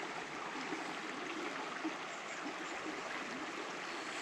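Steady rush of flowing water from a small stream.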